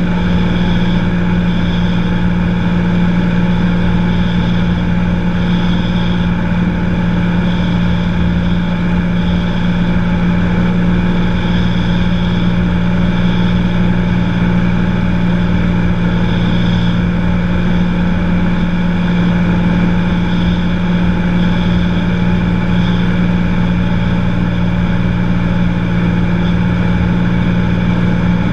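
Cessna 182 light aircraft's piston engine and propeller running steadily in flight: one even hum with no change in pitch or level.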